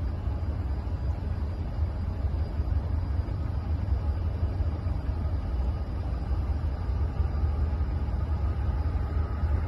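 Freight train passing close by, a steady low rumble.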